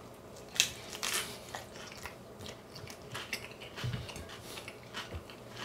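Someone biting into and chewing a crisp chicken salad lettuce wrap: a couple of sharper crunches early, then softer, irregular chewing crunches.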